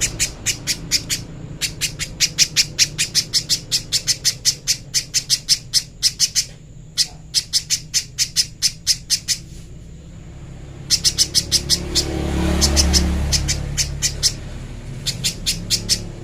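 Little spiderhunter calling in long fast series of sharp, high notes, about five a second, pausing briefly twice. A low rumble swells under the calls about twelve seconds in.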